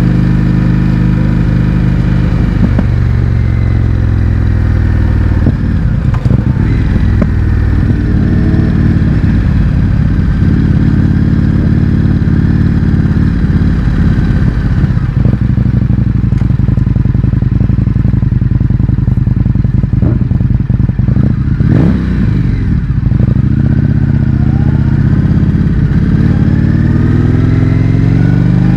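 Indian FTR 1200's V-twin through a baffle-less Akrapovic exhaust, ridden on the road: the engine note falls a few seconds in as the throttle closes, runs on steadily with crackles in places, and rises again near the end as it accelerates.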